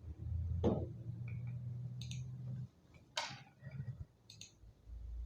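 A handful of scattered clicks from a computer keyboard and mouse, over a low steady hum that stops a little past halfway.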